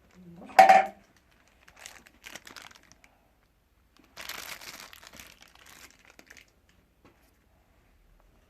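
A short vocal sound, then crinkling and rustling handling noise in several bursts, the longest about four seconds in and lasting a couple of seconds.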